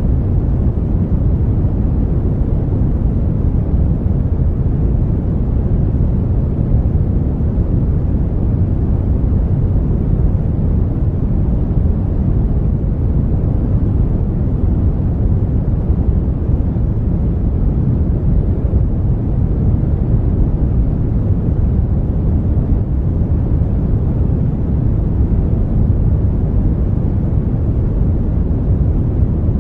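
Brown noise: a steady, deep rushing hiss with most of its weight in the bass, unchanging throughout.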